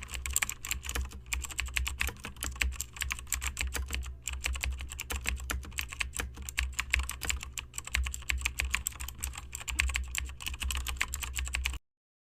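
Computer keyboard typing: quick, irregular key clicks over a low steady hum, cutting off suddenly near the end.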